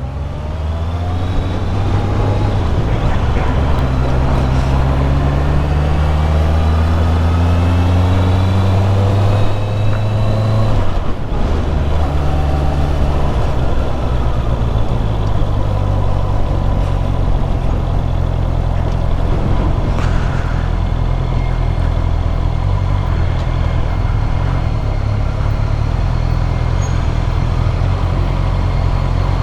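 Motorcycle engine pulling up steadily through the revs for about ten seconds, a gear change about eleven seconds in, then cruising at a steady speed with wind and road noise.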